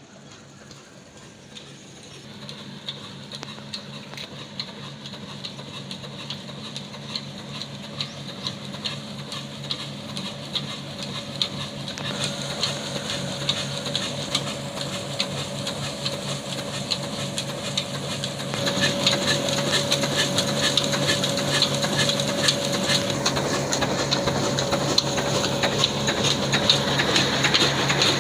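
Old black 22-horsepower diesel engine running steadily while it drives a wheat-grinding flour mill, with a rapid, regular knock over an even hum. It grows gradually louder, with a clear step up about two-thirds of the way through.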